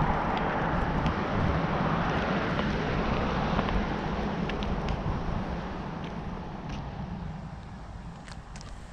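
A passing vehicle's steady road noise on a wet road, fading away over the second half.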